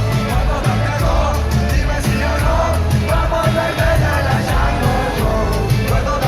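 Loud rock music from a band with singing, a heavy bass line and a steady drum beat with cymbal hits.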